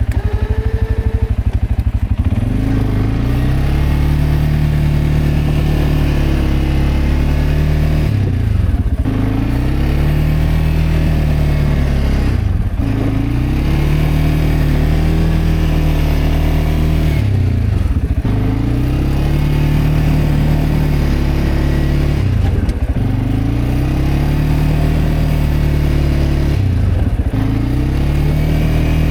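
CFMoto CForce 520L ATV's single-cylinder engine running under load while plowing snow. The revs climb, hold and drop back in a repeating cycle about every four to five seconds.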